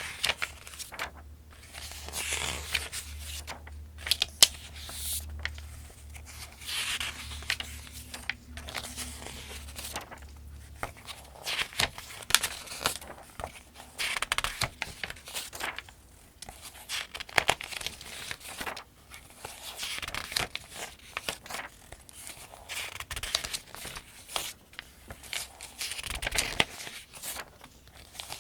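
Paper pages of a Farmers' Almanac being turned by hand one after another: soft swishes and crinkles of paper at a steady, rhythmic pace, about one every second or two.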